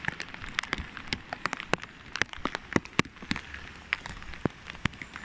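Raindrops tapping on the plastic bag around the phone: sharp, irregular taps, several a second, over a steady hiss of rain.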